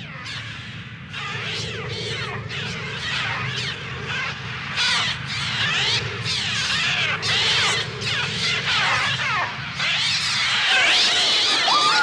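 A massed flock of attacking gulls screeching, many harsh falling cries overlapping without pause over a steady low rumble. The cries grow louder and denser about halfway through. These are the film's synthetic gull cries, made largely on a Mixtur-Trautonium.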